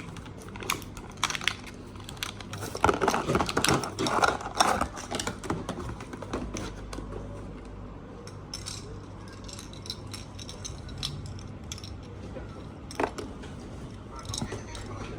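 Small hard parts of a radio-controlled drift car clicking and clattering as they are handled and fitted together, busiest a few seconds in, over a steady low hum.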